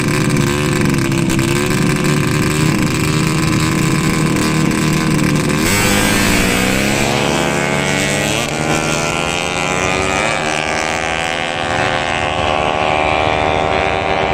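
Motorcycle engines running hard. About six seconds in the sound changes abruptly and the engine notes climb in pitch as the bikes accelerate.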